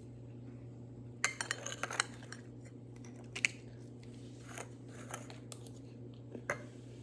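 A spoon clicking and scraping lightly on a plate several times, mostly in a cluster about a second in, with some chewing of crunchy banana candy, over a steady low hum.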